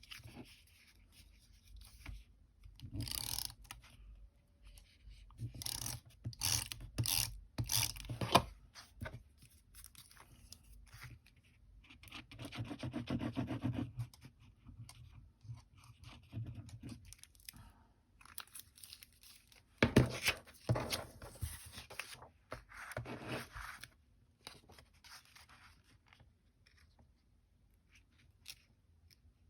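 Paper and cardstock being handled, pressed and rubbed down: irregular rustling, scraping and rubbing with a few sharp clicks and taps, and a longer stretch of rubbing near the middle.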